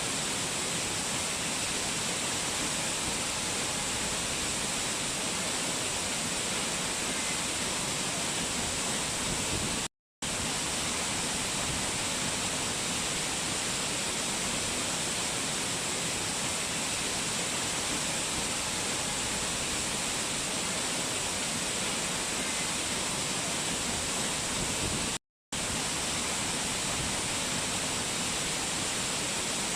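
Mountain waterfall's rushing water, a steady even hiss that cuts out to silence for a split second twice, about ten seconds in and again near the end.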